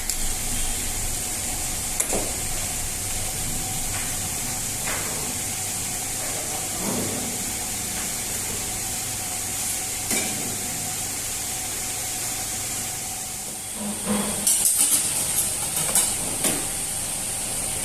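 Steady hissing kitchen background with a faint hum, broken by scattered single knocks, and a quick run of louder knocks and taps from about fourteen to sixteen seconds in.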